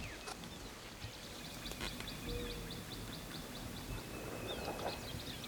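Small birds chirping outdoors: a rapid series of short, high chirps runs from about two seconds in to past three seconds, with a few scattered calls later, over a faint steady background.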